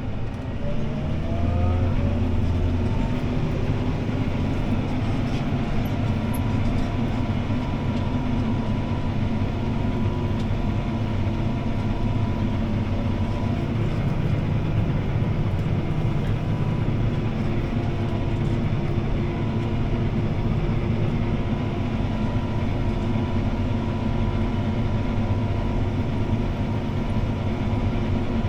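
CLAAS ARION 650 tractor's six-cylinder diesel heard from inside the cab, pulling a disc harrow under load. The engine note rises over the first couple of seconds, then runs at a steady pitch.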